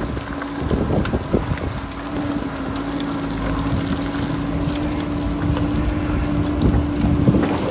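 JCB backhoe loader's diesel engine running steadily, with wind buffeting the microphone and scattered knocks and scrapes of rock, most of them about a second in and again near the end.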